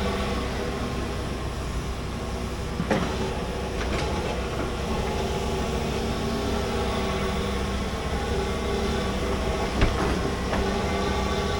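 Large excavator's diesel engine running steadily while digging, with two sharp knocks, one about three seconds in and one near the end.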